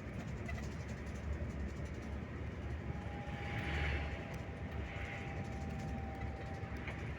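Scania K360IB coach running on the road: a steady low rumble of engine and road noise. A thin steady whine joins about three seconds in, with two short hissy swells of wind and tyre noise.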